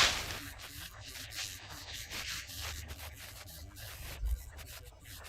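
Hand tool rubbing straw-based render over a wall in repeated uneven strokes, with a short loud hiss at the very start and a low thump about four seconds in.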